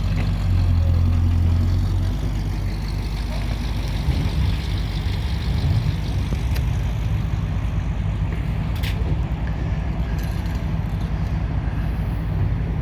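Car engine idling close by, a steady low rumble from the exhaust, with a short click about nine seconds in.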